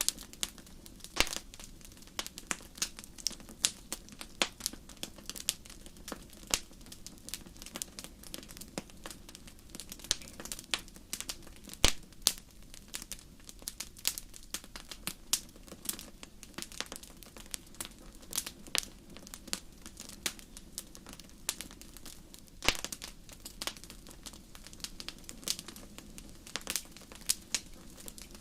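Wood fire burning in a fireplace, crackling and popping in irregular sharp snaps, several every second, with a louder pop about twelve seconds in, over a low steady rush of flame.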